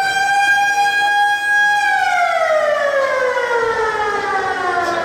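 Hockey arena's siren sounding at full pitch, holding steady for about two seconds, then slowly winding down.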